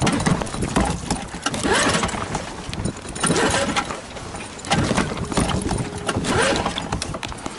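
Outboard motor being pull-started by hand, with the recoil cord yanked repeatedly, about one pull every second and a half, and the engine not catching. It is a cold start with the choke on, pulled one-handed.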